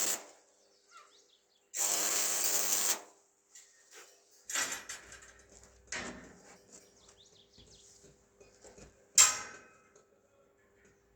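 Metalworking shop sounds: a burst of rushing power-tool noise about a second long, then scattered knocks and clicks, and one sharp metal clank about nine seconds in. A faint steady hum runs underneath.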